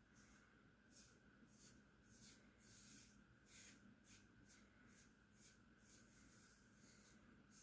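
Faint, quick scraping strokes of a razor shaving stubble on a scalp against the grain, about two strokes a second.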